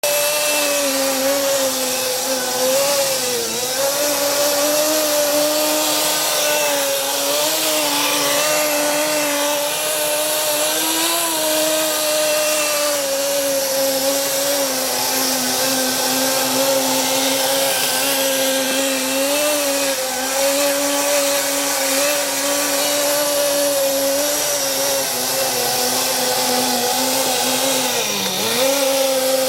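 Small nitro engine of a Blizzard Nitro snow vehicle running at a steady high speed, a buzzing whine with brief dips in pitch about three seconds in and again near the end.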